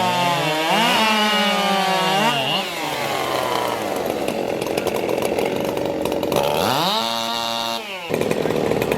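Two-stroke racing chainsaws running at high revs, the pitch swooping up and down several times in the first couple of seconds, then a steadier stretch, and a rev climbing again near the end that cuts off sharply.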